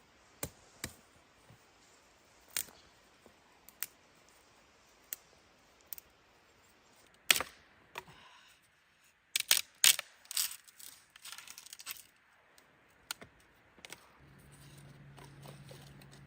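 Sharp clicks, knocks and clatter of things being handled, spaced out at first, then a busy run of clatter about ten seconds in. A low steady hum starts near the end.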